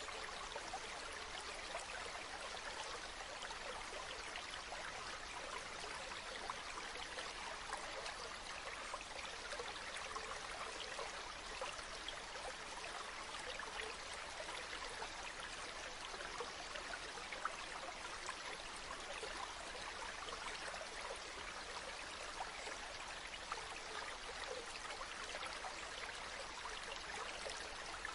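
A shallow stream babbling steadily, with a few faint ticks now and then.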